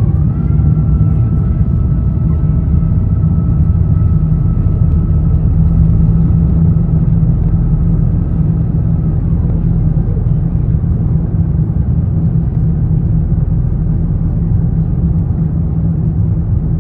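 Airbus A350-900 cabin noise heard from inside the economy cabin during the landing flight: a loud, steady low rumble. A thin, high whine rises about half a second in, holds steady, and fades out around nine seconds.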